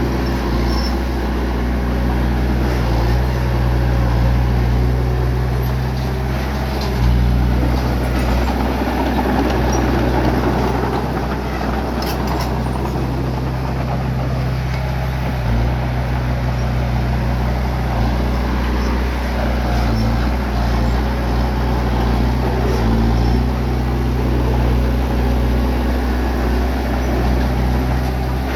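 Bulldozer's diesel engine running steadily, a low droning note with a rough, noisy rumble over it, the engine note shifting slightly about seven seconds in.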